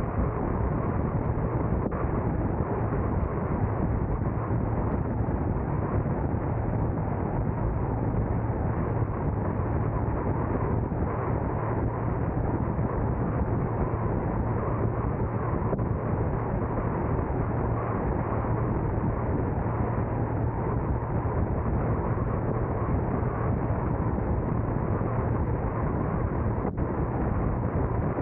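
Steady road and wind noise from a car driving: an even, low rumble with hiss and no distinct events.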